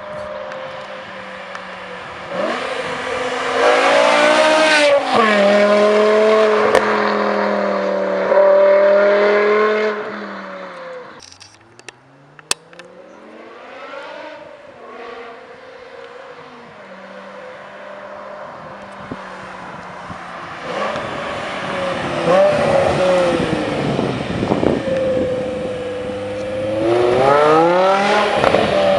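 BMW E60 M5's V10 running through a Meisterschaft GTC exhaust with catless headers, pulling hard: the pitch climbs and steps down about five seconds in as it shifts, holds loud for a few seconds, drops away around eleven seconds, then rises again to a second loud climb near the end.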